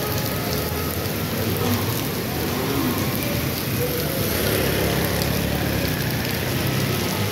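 Heavy rain pouring steadily onto a wet paved street, a continuous even hiss.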